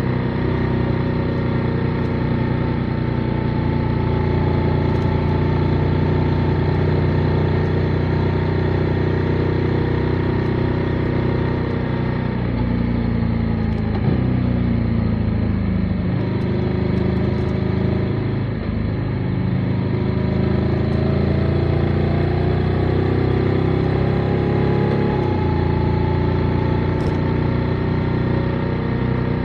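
Motorcycle engine running under way at a steady pitch. About halfway through the note drops as the rider eases off, then it climbs back up through a long rise before settling.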